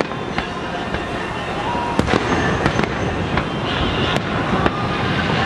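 Aerial fireworks display: a continuous rumble of shell bursts and crackling, with sharp bangs about two seconds in and again about four seconds in.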